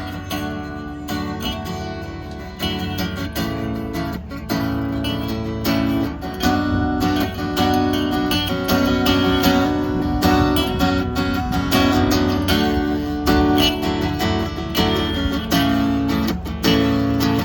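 A country rock band playing an instrumental break with no vocals, led by strummed acoustic guitar over a steady beat.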